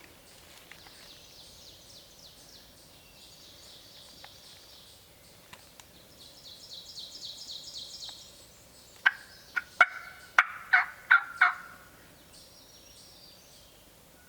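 Wild turkeys gobbling, with rapid rattling calls in the first half. From about nine seconds in comes a run of about seven loud, sharp calls close by.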